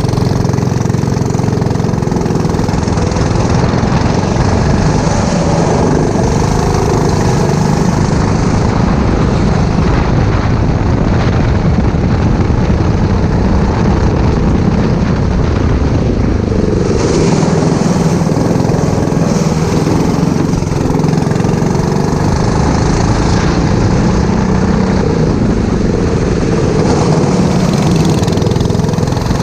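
Go-kart's four-stroke engine running hard under racing load, its pitch rising and falling with the throttle through the corners.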